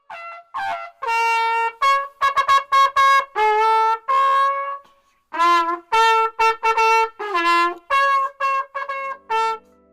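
A solo trumpet playing a melody of short and held notes in two phrases, with a brief break about five seconds in.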